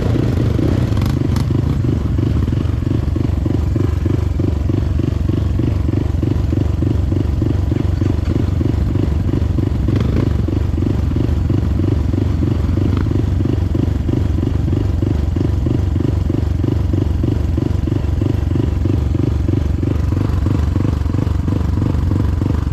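Motorcycle engine running at a steady, even pace, with no revving.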